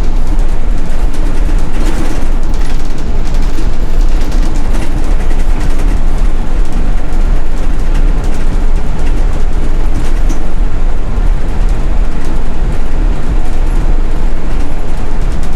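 City bus in motion, heard from inside the cabin: a loud, steady engine and road rumble with light rattles.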